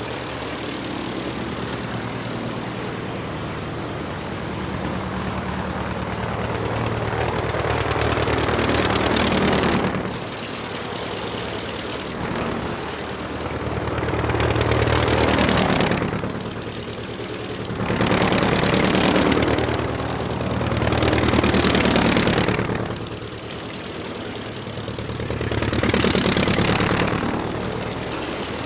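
Aircraft engine running steadily, its sound swelling louder and easing back every few seconds.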